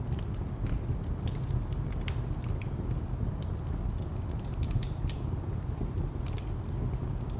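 Wood fire crackling with irregular sharp pops, over a steady low rumble of distant traffic.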